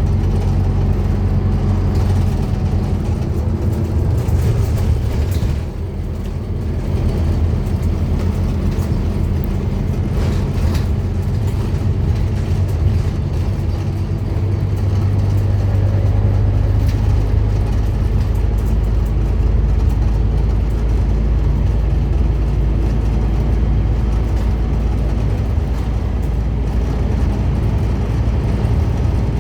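Scania N230UD Omnicity double-decker bus engine running under way, with a steady low drone. About five and a half seconds in the sound briefly drops, like a gear change, then builds again.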